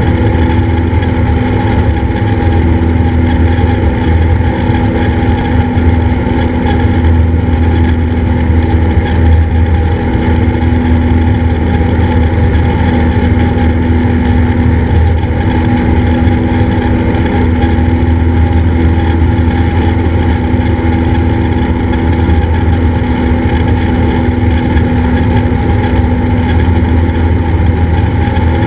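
Cessna 172's piston engine and propeller droning steadily, with an even pitch and no clear change in power.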